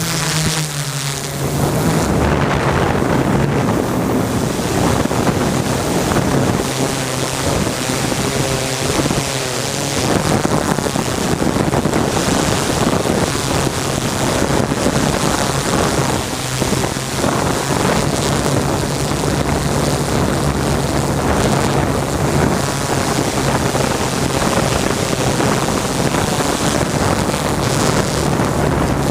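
Drone propellers and motors humming steadily, with wind noise on the microphone.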